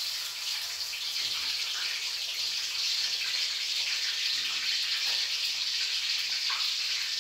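Catfish pieces frying in hot oil in a wok, a steady sizzling hiss that grows a little louder after a few seconds.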